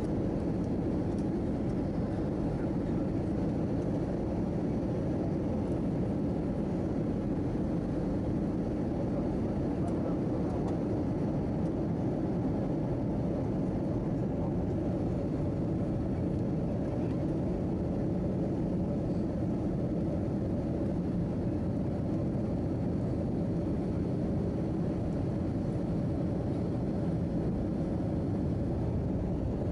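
Steady drone of an Airbus A319-111's CFM56 jet engines and airflow, heard inside the passenger cabin. It is a deep, even rumble with a faint steady hum and no changes.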